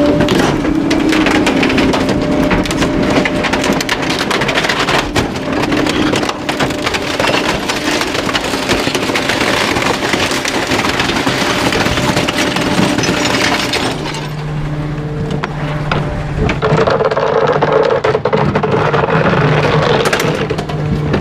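Garbage truck's hydraulic packer crushing bulky waste, with dense cracking and splintering of wood over a steady machine hum. About fourteen seconds in the cracking thins out and the hum changes to a lower, steadier tone.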